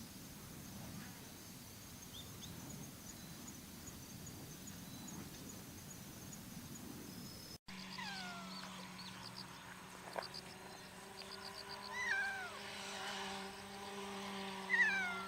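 A cat meowing several times in the second half, drawn-out calls that rise and fall in pitch, over a steady low hum. Before that, a steady low outdoor rumble with faint high insect chirping.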